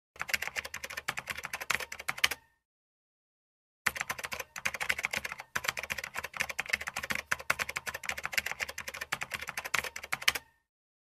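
Typing sound effect: rapid key clicks in two runs, the first lasting about two seconds, then a pause of about a second and a half, then a longer run of about six and a half seconds that stops shortly before the end.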